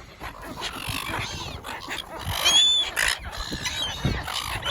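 Seagulls squawking close by: a string of short, harsh calls, with one loud call about halfway through. A steady noisy rustle runs underneath.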